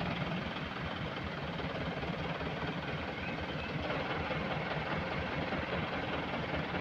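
Heavy machine engine running steadily with a low throbbing pulse, at work at a sand-loading site.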